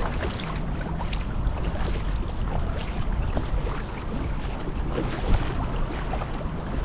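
Water splashing and lapping around a kayak as it is paddled, with irregular small splashes and a steady wind rumble on the microphone.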